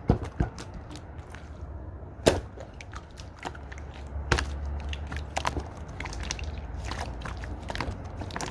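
Slime being squeezed and mixed by hand, giving sharp irregular clicks and pops, the loudest just after the start and about two seconds in, over a steady low hum.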